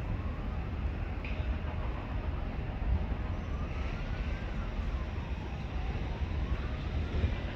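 Electric train running: a steady low rumble with a faint whine that rises and falls in pitch.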